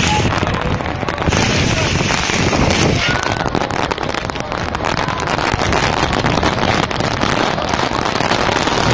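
Heavy rain pouring down in gusty wind, with a constant patter of sharp drop impacts and wind buffeting the microphone.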